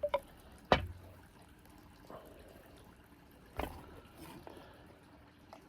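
A few hollow knocks, the two loudest about three seconds apart: a wooden rolling pin knocking against a tobacco press to free the pressed cake of Perique and Virginia stuck inside.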